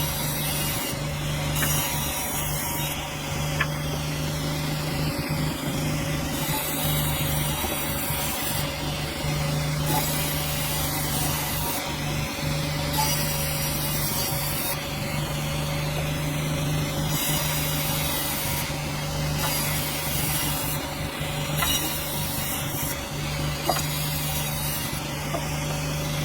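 Sawmill running steadily, its engine humming under the noise of the blade sawing through a dense hardwood log.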